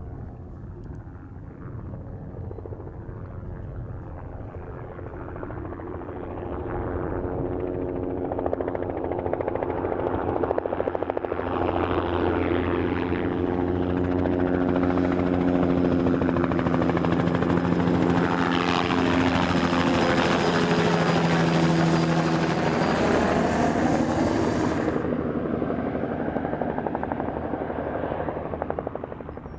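Low-flying spray helicopter's rotor and engine beating steadily as it approaches, passes close by and moves away. It grows louder over the first several seconds, is loudest through the middle, and fades near the end.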